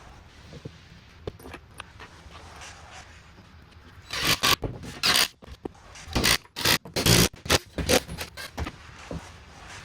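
A quick run of short, loud scraping sounds, about a dozen over some five seconds, starting about four seconds in.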